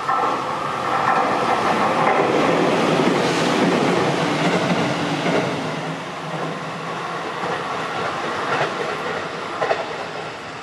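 Electric commuter train passing close at speed: a steady rush of wheels and running gear with clickety-clack over the rail joints, loudest in the first half, then a few sharp clacks near the end.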